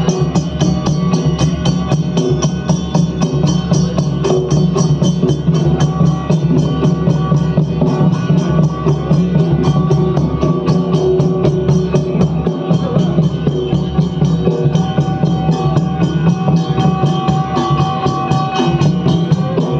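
Instrumental interlude of Odia Danda Nacha folk music: fast, steady drumming with a held melody line over it.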